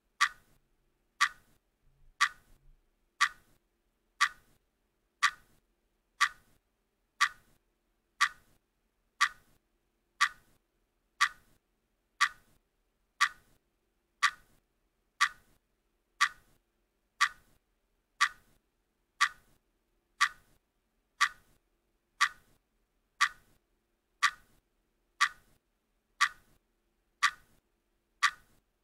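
Countdown timer ticking steadily, one sharp tick each second.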